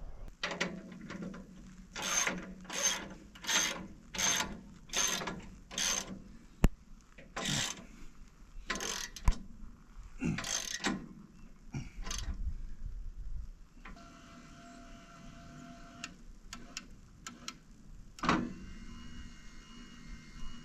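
Metal mechanism ratcheting in a run of evenly spaced strokes, about one and a half a second, then a few irregular strokes and a faint steady whine near the end.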